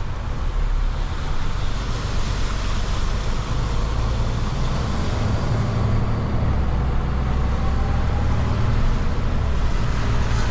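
Truck driving along: steady engine rumble and road noise.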